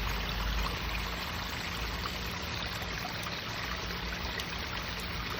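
Garden wishing-well waterfall feature, its water pouring and splashing in a steady, unbroken flow.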